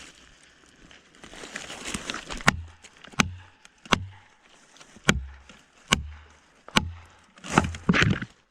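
Repeated hard strikes on wood, one about every 0.8 seconds, starting about two and a half seconds in. Each is a sharp crack with a short low thud after it, about eight blows in all.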